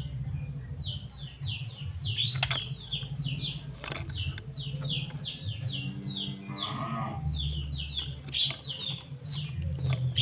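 White-rumped shama (murai batu) calling in a rapid series of short, high, downward-sweeping chirps, about three to four a second, over a steady low hum. A short low bleating call sounds about six seconds in.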